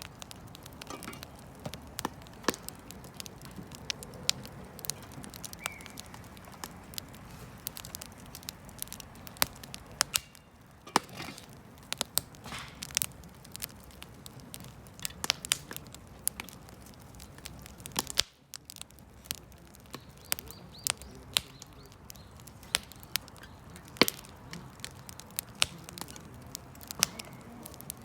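Wood campfire crackling, with irregular sharp pops and snaps over a steady low background.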